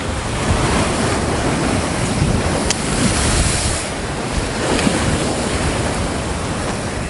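Waves surging and breaking against a sea rock, with strong wind buffeting the microphone; a louder wash of spray comes about three seconds in.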